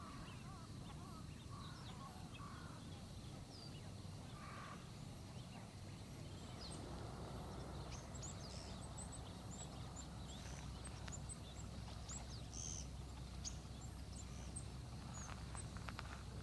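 Birds calling outdoors. Lower, wavering calls come first, then many short, high chirps of small birds from about six seconds in, over a steady low background rumble. A few sharp clicks come near the end.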